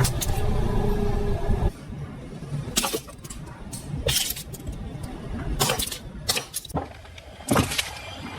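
A car rolling with its engine running, cut off suddenly after about two seconds, then a string of sharp cracks and crunches as objects are crushed under its tyres.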